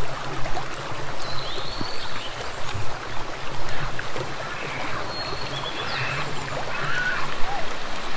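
Steady rush of running water, with a few short, faint high chirps over it.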